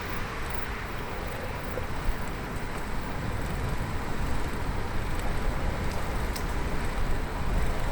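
Steady rumble of wind on the microphone and road noise while riding a bicycle, with a few faint clicks.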